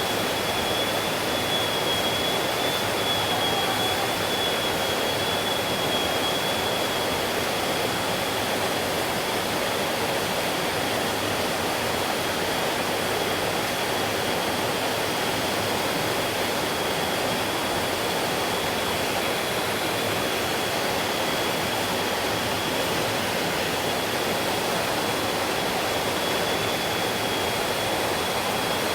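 Mountain stream water flowing in a steady, even rush, with a thin, steady high-pitched tone running through it.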